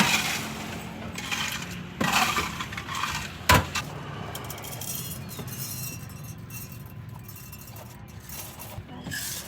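Glassware and utensils clinking and clattering while a barista prepares a drink, with one sharp knock about three and a half seconds in.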